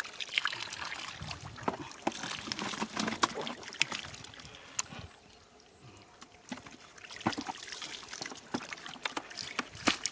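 Shallow water splashing and trickling as it is stirred, with many short sharp slaps, quieter for a moment past the middle.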